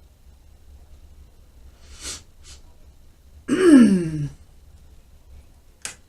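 A woman sniffs twice, then gives a short wordless vocal sound that falls in pitch, like a sigh, about three and a half seconds in. A short quick breath follows near the end.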